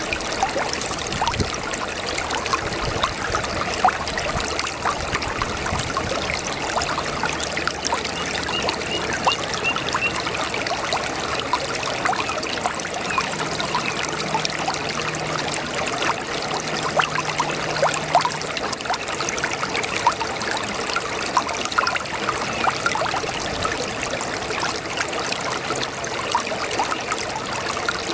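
A brook babbling steadily: a dense, even trickling and bubbling of running water.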